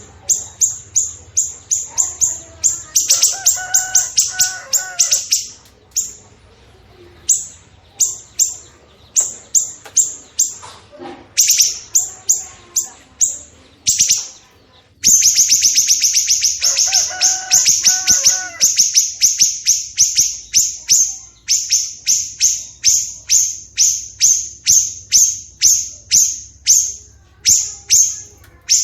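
Songbird song for training caged birds (masteran): a long series of sharp, high chip notes at about two to three a second. The notes speed into a faster, louder run about halfway through. Two short, lower warbling phrases are mixed in, one early and one just after halfway.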